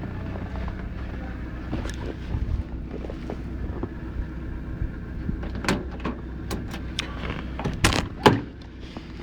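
Mitsubishi 4D56 turbo diesel engine running at a steady idle just after a cold start in sub-zero weather. Several sharp clicks and knocks come in the second half, the loudest near the end.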